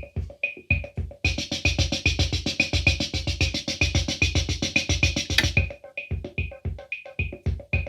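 Roland CR-68 CompuRhythm analogue drum machine playing a rhythm pattern of low drum thumps and short high clicks. From about a second in until about five and a half seconds, a dense layer of fast hissy ticks joins over a busier beat.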